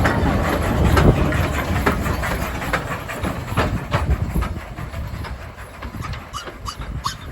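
Railway train running over rail joints and pointwork, with wheels clicking irregularly over a rumble. It is loudest about a second in and eases off after about five seconds, with a few short high squeaks near the end.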